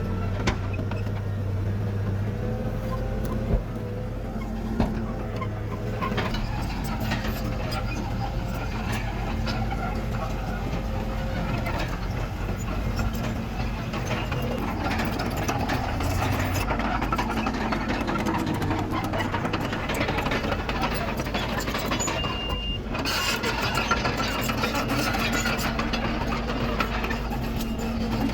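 Diesel engine of heavy earthmoving machinery running steadily, with its pitch shifting slightly as it works.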